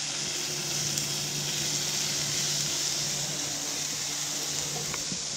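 Diced pork, garlic and onion sizzling steadily in hot oil in a nonstick frying pan as they are stirred with a silicone spatula.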